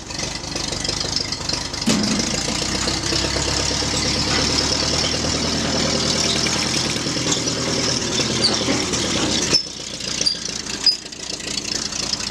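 Tractor engine running. About two seconds in it gets louder and holds steady, then drops back sharply a little before ten seconds.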